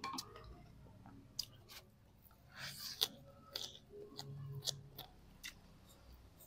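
Close mouth sounds of a person eating rice and pako fern salad with his fingers: soft intermittent chewing, smacks and small clicks.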